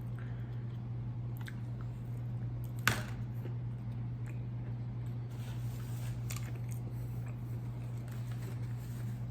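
A person chewing and biting fried fast food close to the microphone: short wet mouth clicks and smacks, with one sharp crunchy bite about three seconds in. A steady low hum runs underneath.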